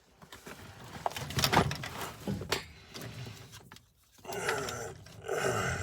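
Irregular knocks and rattles from hands working on an old gas furnace's metal parts, then a steady hum that starts about five seconds in.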